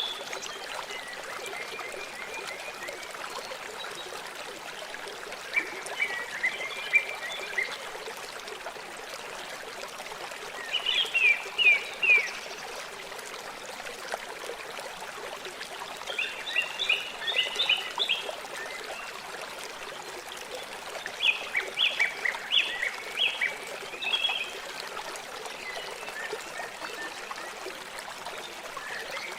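River water flowing with a steady rushing hiss. Over it a bird sings short phrases of quick, high, falling notes about every five seconds.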